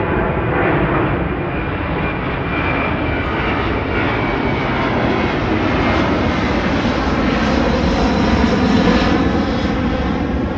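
An airliner taking off and climbing out, its engines a loud, steady noise that swells to its loudest about eight to nine seconds in and then begins to fade.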